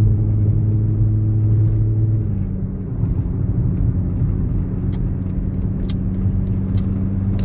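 Car engine and road noise heard from inside the moving car's cabin: a steady engine hum whose pitch steps down slightly about two seconds in, over low tyre rumble, with a few light ticks later on.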